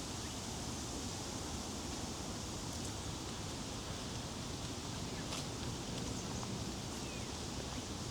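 Woodland ambience: a steady outdoor hiss with a few faint short bird chirps and a couple of faint clicks.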